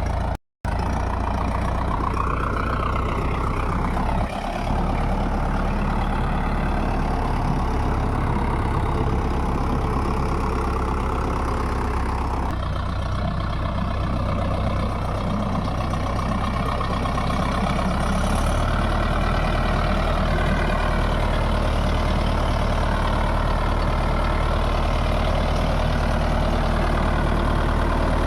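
Mahindra Yuvo Tech Plus 585 DI tractor's diesel engine running steadily with a deep low drone. The sound breaks off briefly about half a second in.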